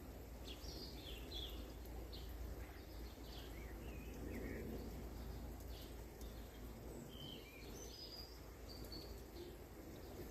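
Outdoor nature ambience: several birds chirping and whistling in short notes, some gliding in pitch, over a steady low background hum of wind or distant noise.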